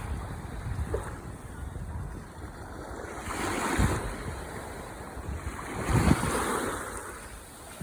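Ocean waves surging and washing onto the shore. Two waves swell up and break, the first about halfway through and a stronger one near the end, over a constant low rumble of surf.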